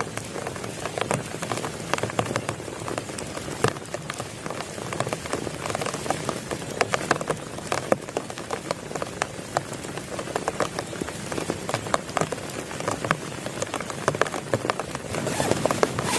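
Heavy rain falling steadily, with many individual drops hitting a surface close by in a dense, irregular patter.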